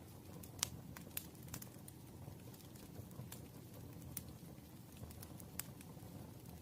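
Campfire burning: a low, steady rumble of flames with sharp wood-crackle pops at irregular intervals, the loudest pop about half a second in.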